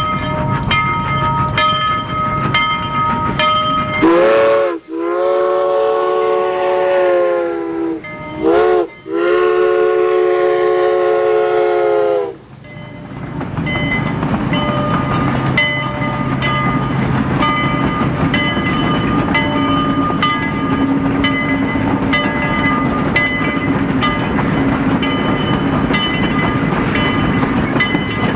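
A train rolling along the track, with steady rumble and regular clicks of the wheels over rail joints. About four seconds in, the train's horn sounds a chord in a long blast, a short one and another long one, then the rolling and clicking carry on.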